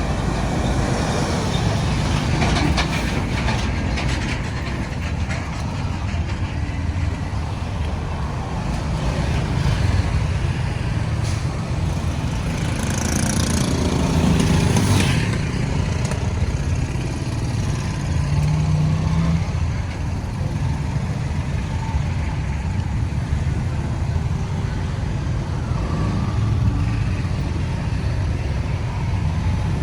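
Road traffic: a steady rumble of vehicle engines and tyres going by, with a brief hiss near the middle.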